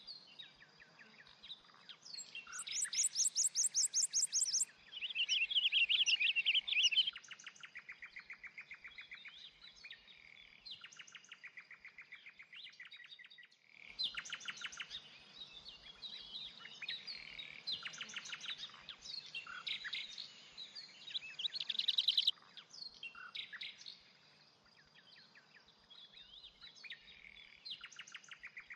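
Several songbirds singing and chirping together, with fast trills of rapidly repeated notes, the loudest bursts a few seconds in and just past the middle. The song breaks off for a moment about halfway and then resumes.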